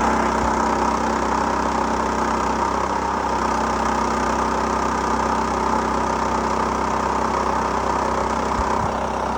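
Gasoline engine of a Mechmaxx SM-22 bandsaw sawmill running steadily, driving the band blade through cedar.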